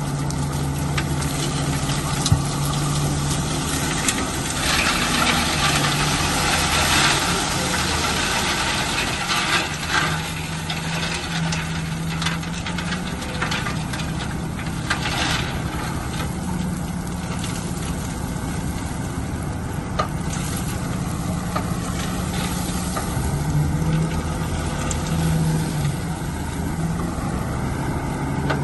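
Bulldozer's diesel engine running steadily as it works, its low note shifting up and down, with several bursts of scraping noise.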